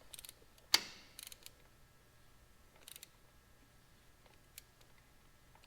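Hand tools and metal parts being handled during bolt tightening. A sharp clack comes just under a second in, then a short run of quick clicks, then a few faint scattered clicks.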